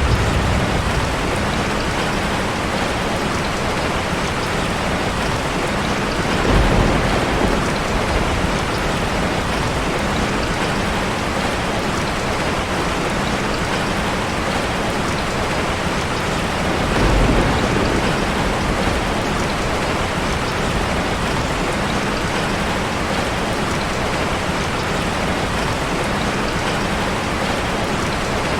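Waterfall ambience: a steady, dense rush of falling water. Two brief low rumbling swells come about six and seventeen seconds in.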